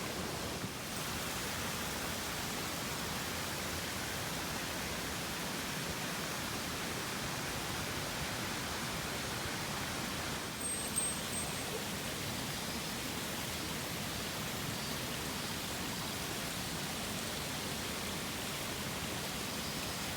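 Mountain stream rushing steadily, an even wash of water noise. A brief, faint high-pitched chirp is heard about halfway through.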